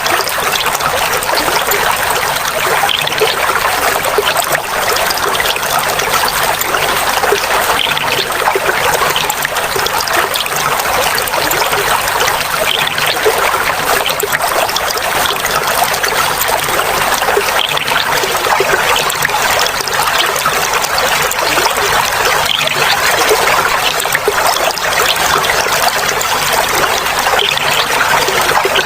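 Clear water flowing and babbling in a steady, continuous trickle.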